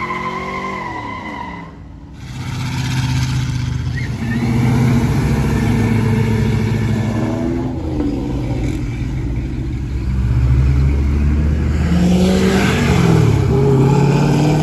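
Car engine revved hard during a burnout. A high tyre squeal stops about a second and a half in, the revs drop briefly, then the engine is held at high revs, rising and falling.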